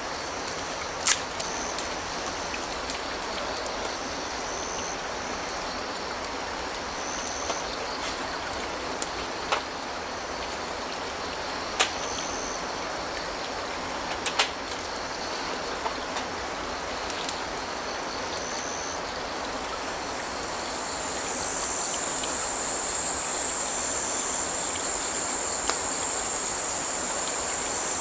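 A creek runs with a steady rush, and a few sharp pops or clicks come through it. About two-thirds of the way in, a high, shrill chorus of crickets swells up and carries on.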